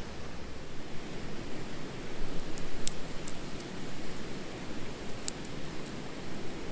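Wood campfire burning with a steady rush, with a few sharp crackles and pops, the loudest about three seconds in and again a little after five seconds.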